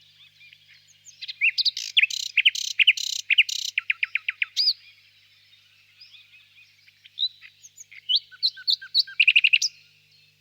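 Nightingale singing: a long phrase of rapid repeated notes about a second in, then quieter notes, and another fast repeated-note phrase near the end.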